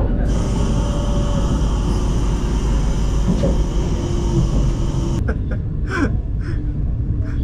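Vande Bharat Express electric train running, a steady rumble heard from inside the coach. About five seconds in, the sound changes abruptly to a quieter rumble with a few short sounds.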